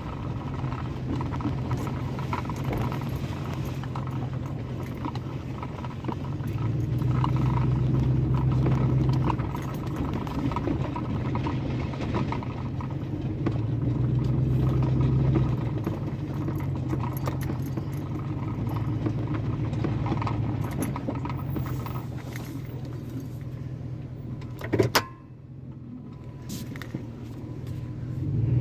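Pickup truck with its muffler removed, its engine running as it drives and swelling louder a couple of times under throttle. A sharp click comes near the end, after which it runs quieter.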